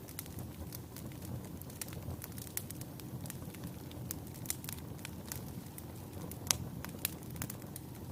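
Wood fire burning in a fireplace: a steady low rumble of flames with frequent small crackles, and two louder pops about half a second apart near the end.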